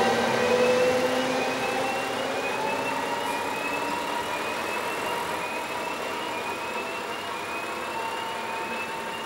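Passing train running and slowly fading away, with a short rising electronic tone that repeats about once a second throughout.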